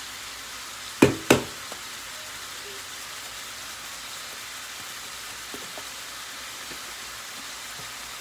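Ground beef sizzling steadily in a frying pan, with two sharp clicks close together about a second in.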